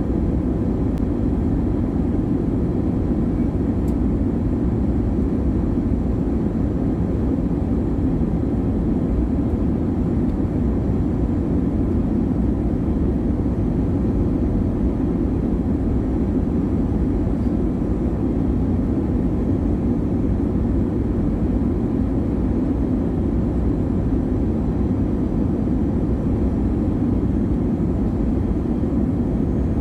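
Steady cabin noise of an airliner on approach: jet engines and rushing air heard from inside the cabin as an even, low rumble that does not change.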